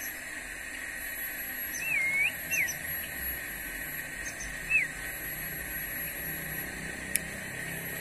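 A few short bird chirps, first a wavering note and then two brief falling notes, over a steady high background drone, with one sharp click near the end.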